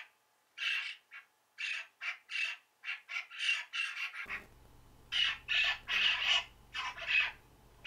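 Recorded bird calls: a run of short, harsh squawks repeated several times a second, with short gaps between runs. A faint low hum comes in under the calls about halfway through.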